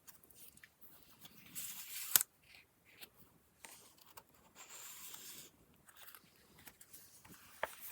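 Paper pages of a handmade junk journal being handled and turned: bursts of rustling and crinkling, with a sharp snap about two seconds in and another near the end.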